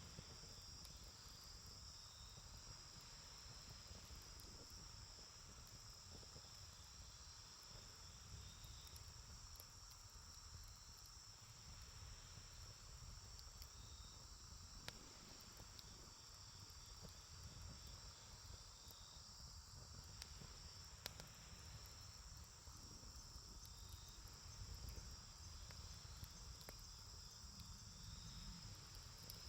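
Faint, steady high-pitched chirring of insects, with a low rumble underneath and two sharp pops from the campfire partway through.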